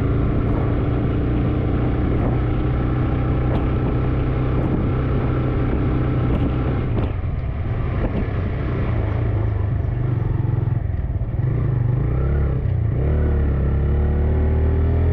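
2021 TVS Raider 125's single-cylinder engine running under way at a steady note. About three quarters of the way through the pitch wavers and dips, then rises again near the end as the throttle opens. A few light knocks come through in the first half.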